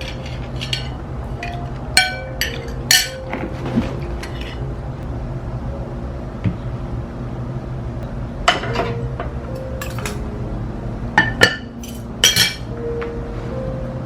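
Sharp clinks of dishes and utensils, about eight, some in quick pairs, each with a short ring. Soft background music plays under them.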